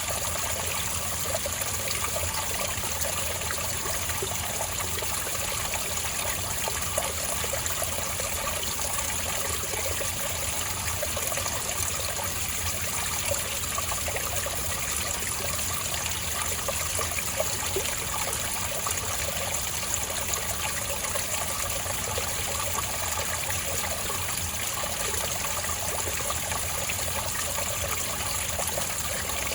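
Spring water trickling and running steadily over rocks, a continuous mix of small splashes and burbles with no change.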